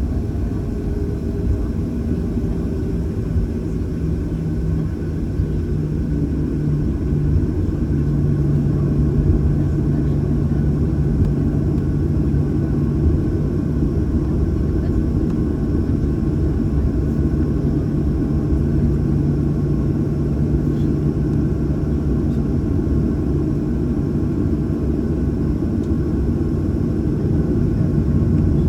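Cabin noise inside a Boeing 737-800 with its CFM56 engines running: a steady low rumble with a constant hum that shifts slightly lower in pitch about eight seconds in.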